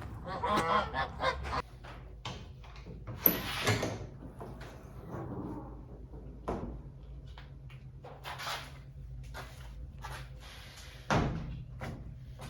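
A bird honking several times in the first second and a half, then scattered knocks and clicks.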